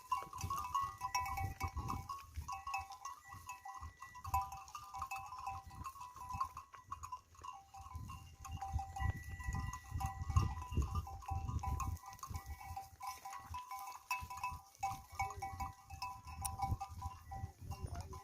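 Livestock such as a herd of goats or sheep, with steady ringing tones that come and go throughout, over a low rumble.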